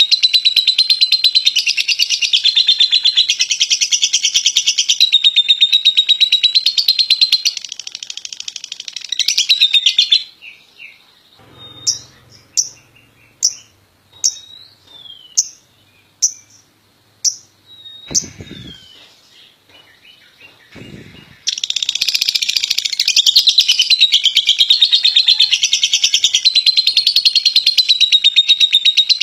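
Lovebird ngekek: a loud, rapid, unbroken chattering trill for about ten seconds. It breaks off into a quieter stretch of eight or so single sharp chirps about half a second apart, then the rapid chattering starts again about twenty seconds in.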